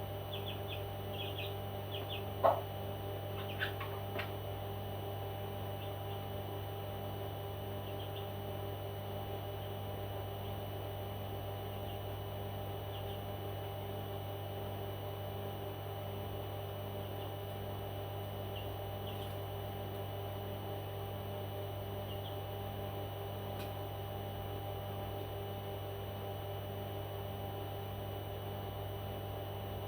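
Steady electrical hum, with a few short, soft chirps from a pet parrot, clustered near the start and scattered later, and one brief louder call about two and a half seconds in.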